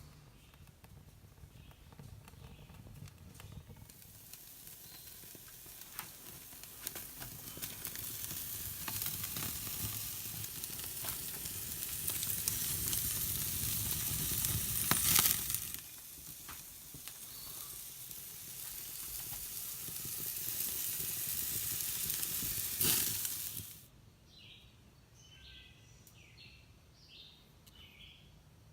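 Hamburger patties sizzling as they cook over a campfire, the hiss building and peppered with sharp pops and crackles. The sizzle cuts off suddenly near the end, leaving birds chirping.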